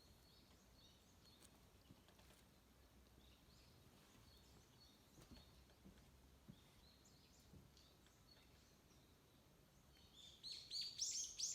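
Faint, scattered bird chirps over quiet outdoor ambience, then near the end a bird calls loudly in a quick run of repeated high, falling chirps, about three a second.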